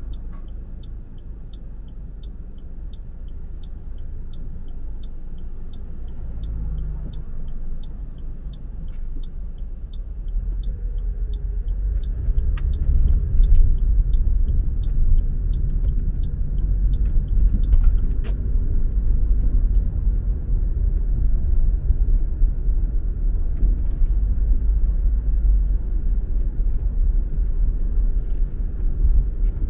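Car driving, with low road and engine rumble that grows louder about a third of the way in as the car speeds up. A turn-signal indicator ticks about twice a second until roughly two-thirds of the way through, then stops.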